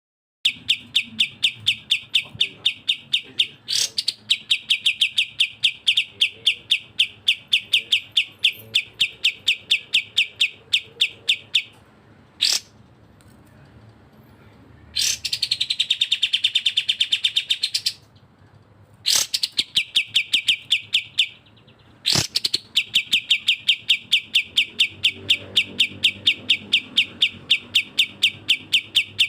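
Bulbul song: long runs of fast, evenly repeated sharp chirps, about six or seven a second, broken by a few short pauses. Now and then a loud single sweeping note comes between the runs, and midway there is a brief stretch of rising-and-falling whistled notes.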